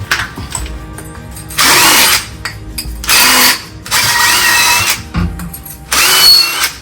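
Pipe end being scrubbed clean with an abrasive pad or brush: four bursts of metal scraping, each about half a second to a second long, with a squealing tone.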